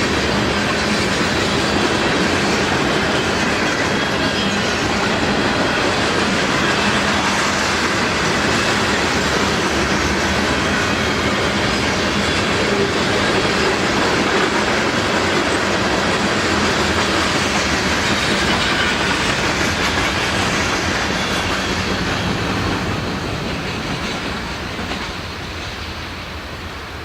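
A train rolling past, its wheels running steadily on the rails, the sound dying down over the last few seconds.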